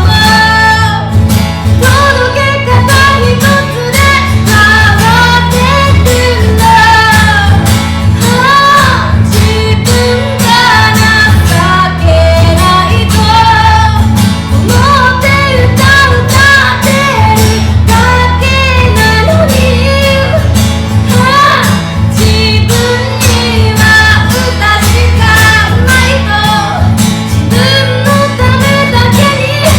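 A female singer singing a slow song live, accompanied by acoustic guitar.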